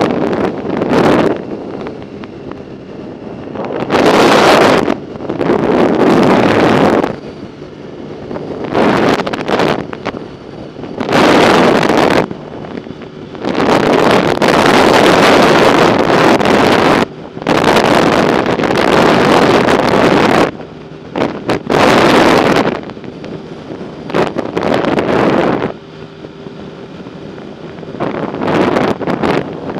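Wind buffeting the microphone of a camera riding along on a bicycle, coming in loud gusts of one to three seconds with quieter rushing between them.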